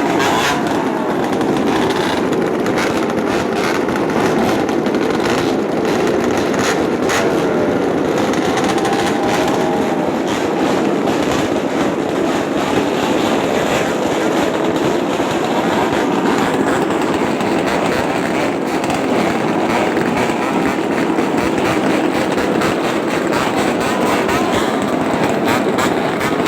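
Motorcycle with an aftermarket racing exhaust running loud and steady, its exhaust note rasping with a rapid crackle throughout.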